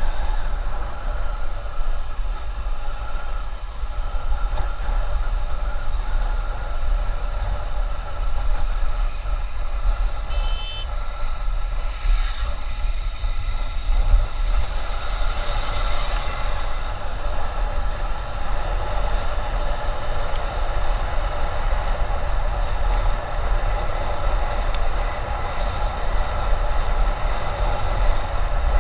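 Steady running noise of a motorbike riding on a highway: engine drone with wind rumbling on the microphone. A short horn sounds about ten seconds in.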